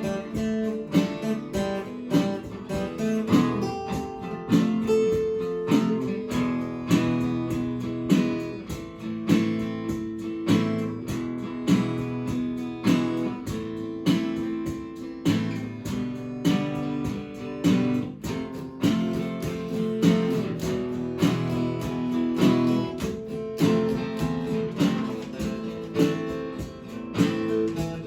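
Acoustic guitar strummed in a steady rhythm through a chord progression, without singing.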